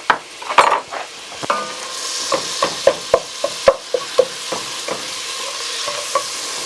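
Half a stick of butter melting and sizzling in a pot on the stove, with a utensil clicking and scraping against the pot as it is stirred, the clicks coming quickest in the middle.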